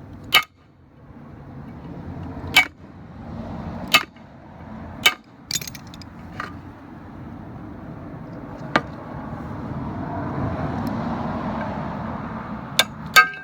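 Sharp metal knocks, about seven spread irregularly, as the camshaft position sensor is beaten out of the GM V8's timing cover from the inside. A steady low noise swells under the knocks in the second half.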